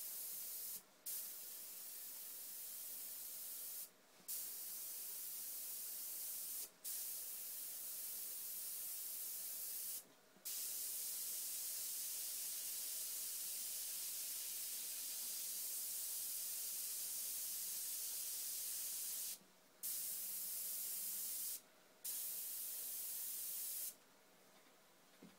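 Airbrush spraying paint: a steady hiss of air, broken by six short pauses and stopping near the end.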